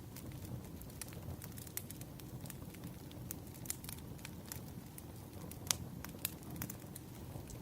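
Wood fire crackling: a steady low rumble of burning logs with frequent irregular sharp pops and snaps, one louder pop about three-quarters of the way in.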